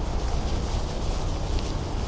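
Wind buffeting the microphone of a camera on a moving bicycle: a steady, deep rumble with an even hiss above it.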